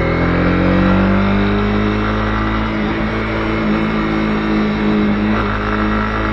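Honda CB250R's single-cylinder engine running under way; its note finishes rising early on and then holds at a steady pitch.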